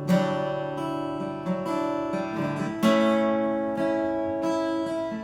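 Acoustic guitar strumming chords, with a hard strum right at the start and another just before three seconds in, each chord left to ring between lighter strokes.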